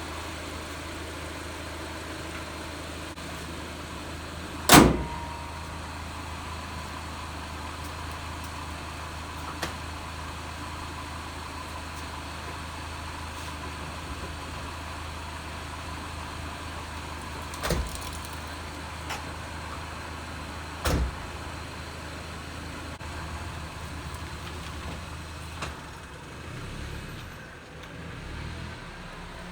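Cobalt SS's supercharged LSJ four-cylinder idling steadily after a fresh supercharger oil change, with a loud thump about five seconds in and two smaller knocks later on; near the end the engine note changes.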